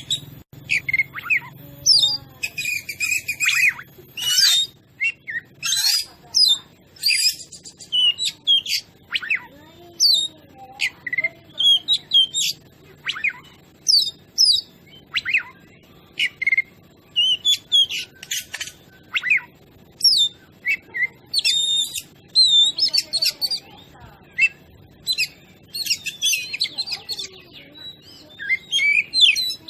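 Oriental magpie-robin (kacer) singing steadily: a fast, varied run of clear whistles, chirps and harsher notes in quick phrases with brief pauses.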